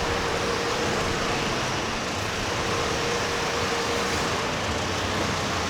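Steady city street traffic noise: an even hum of cars passing, with a faint steady tone underneath.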